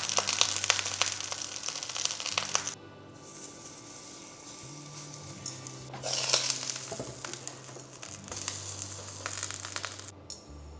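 Pumpkin fritters sizzling and crackling as they fry in oil in a frying pan. The sizzle drops off suddenly about three seconds in and grows louder again about six seconds in, as the pan's glass lid comes off.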